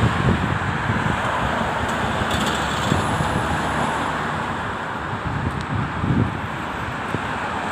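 Road traffic noise as a bus approaches and pulls up: a steady engine and tyre rumble, swelling low near the start and again about six seconds in.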